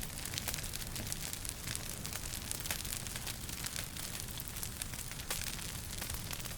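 Wood fire burning in a fireplace, crackling with many small irregular pops over a steady hiss and a low rumble.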